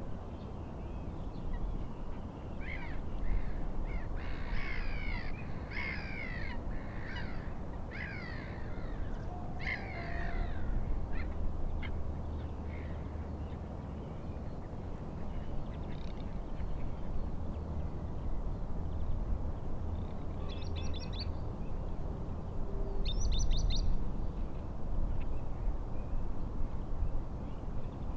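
Birds calling: a run of repeated calls, roughly one a second, over the first ten seconds or so, then two short clusters of quicker, higher notes later on. Under them runs a steady low rumble of wind and lake water.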